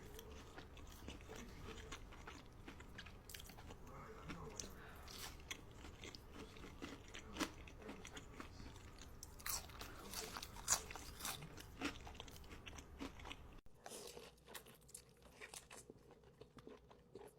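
Close-miked eating: crisp crunching bites and chewing, with short crackly snaps. The background drops abruptly about three quarters of the way through, and the crunching continues more quietly.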